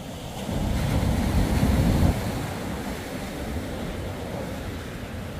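Surf breaking and washing, with wind on the microphone. It swells louder for the first two seconds, then settles into a steady rush.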